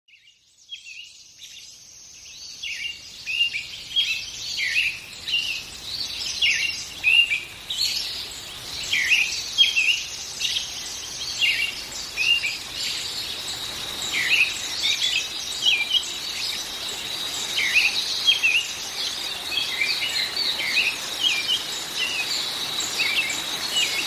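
Birdsong: many small birds chirping and twittering in quick, overlapping calls, fading in over the first few seconds. A steady, thin high tone joins in about halfway through.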